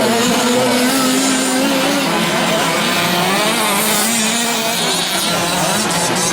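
Several 1/5-scale gas RC trucks' small two-stroke engines running together at race pace, their pitches rising and falling as they rev up and back off.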